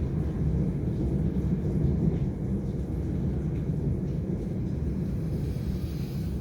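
Storm wind buffeting the microphone: a steady low rumble that keeps surging and easing, with little hiss above it.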